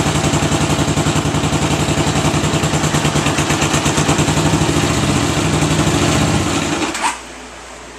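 1979 Honda CX500 Custom's liquid-cooled V-twin idling evenly, already warm, then shut off near the end with a short knock as it stops, leaving a faint steady hum.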